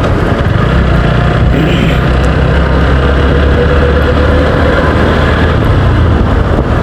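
TVS Apache RTR motorcycle engine running steadily while being ridden.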